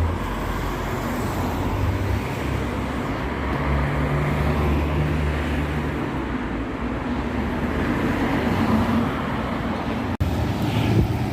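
A vehicle engine runs with a low, steady hum over traffic noise. About ten seconds in, the sound cuts off abruptly and a new clip begins.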